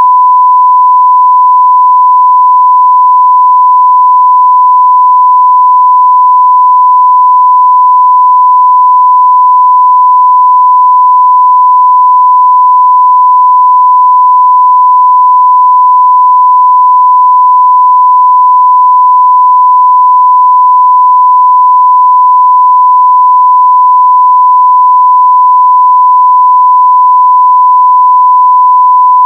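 Continuous 1 kHz sine-wave test tone at full-scale level (0 dB), one steady pitch without any change.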